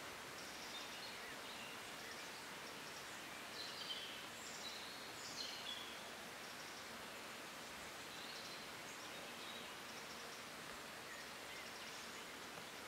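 Quiet evening outdoor ambience: a faint steady hiss with scattered small bird chirps and calls, a short cluster of them about a third of the way in.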